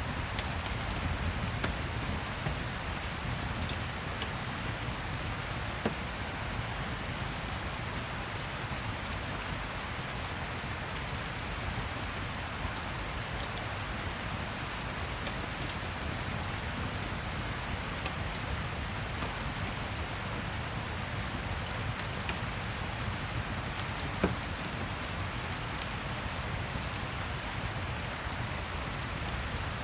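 Steady rain falling, with occasional sharp crackles of a wood fire in a fireplace, the clearest about six seconds in and again about 24 seconds in.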